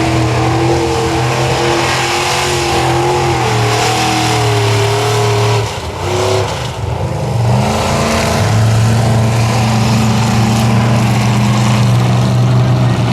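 Ford F-550 mud truck's engine running hard at high revs. It eases off briefly about six seconds in, then pulls again at a steady pitch.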